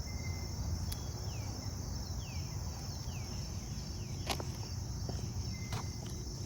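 Insects chirring in a steady, high, even drone over a low rumble. A bird gives about five quick down-slurred notes in the first half, and a few sharp ticks sound.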